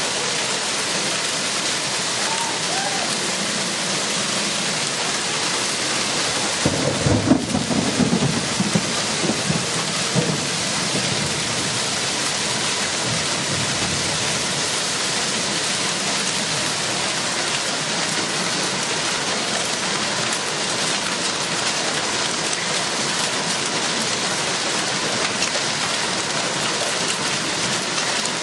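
Steady rain falling throughout a thunderstorm. About seven seconds in, a thunderclap rumbles on for about three seconds before dying back into the rain.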